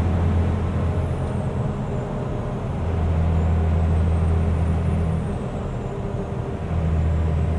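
The Mercedes-Benz Unimog U500's torquey turbo diesel engine drones under way at road speed, heard from the cab with the engine right below. The drone eases off about a second in and again around six seconds, then comes back.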